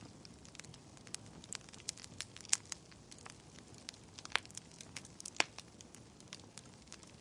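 Wood fire crackling in a fireplace: irregular sharp snaps and pops over a soft hiss, with a few louder pops about two and a half, four and a half and five and a half seconds in.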